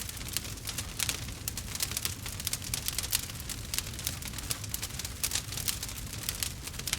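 Wood fire crackling, with many small irregular pops and snaps each second over a low steady rumble.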